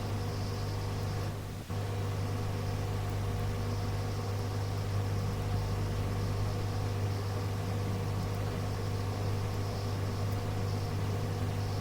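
Steady hum and hiss of an air-band radio recording between transmissions, with a brief dip about a second and a half in.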